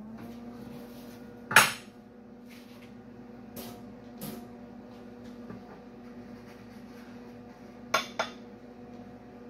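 Steady electrical hum of a switched-on MIG welder, with a few sharp metallic clinks and knocks on the steel grille work: a loud one about a second and a half in, two lighter ones around the middle and a quick pair near the end.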